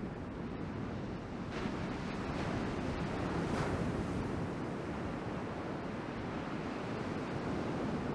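Ocean surf and rushing water, with wind buffeting a GoPro's microphone: a steady roar of noise that swells about a second and a half in.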